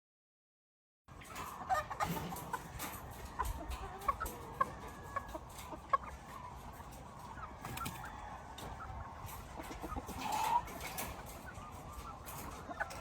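Gamefowl chickens clucking, with short calls scattered throughout and one louder call a little past the middle, over scattered sharp clicks and knocks. The first second is dead silent.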